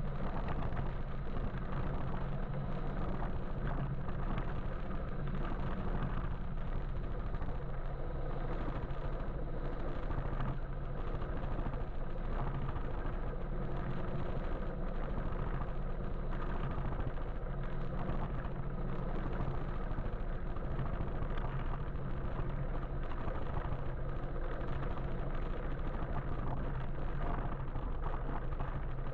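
Steady road and traffic noise heard while riding an electric motorbike in city traffic, a constant low rumble without breaks.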